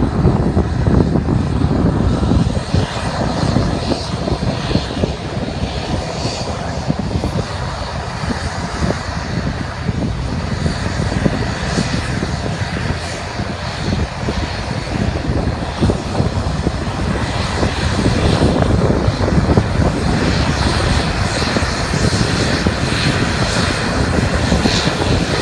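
Departing airplane's engines running loud and steady at close range, a deep rushing noise that eases a little midway and then builds again.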